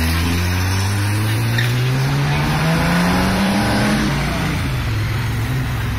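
Jaguar D-type's straight-six engine accelerating away, its note rising steadily for about four seconds, then fading.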